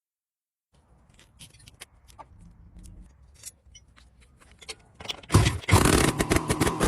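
Small metal clinks and taps of workshop handling, then about five seconds in a loud, rough scraping noise that runs on for nearly two seconds.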